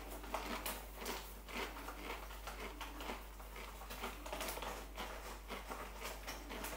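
A person chewing a mouthful of crunchy potato crisps with the mouth closed: a run of soft, irregular crunches, roughly two a second.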